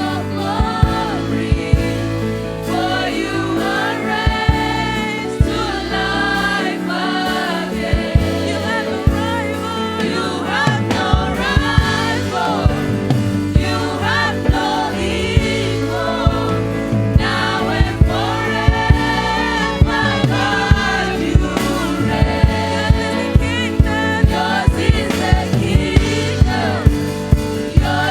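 Gospel worship song by a church band with several singers in harmony over sustained keyboard chords, and drums keeping a steady beat.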